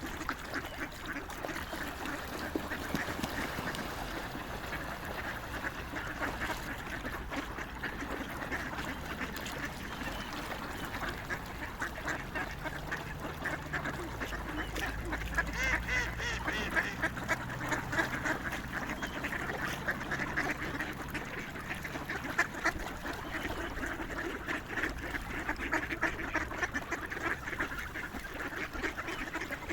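A flock of swans and other waterfowl calling, many short calls overlapping continuously and growing busier around the middle.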